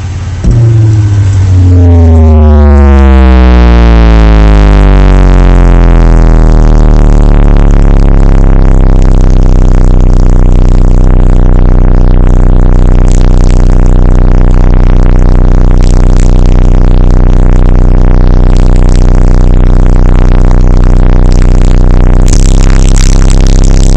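Car sound system's subwoofers playing a very loud, deep bass tone that slides down in pitch over the first few seconds and then holds steady, heavily distorted, played at a level meant to shatter the car's window glass.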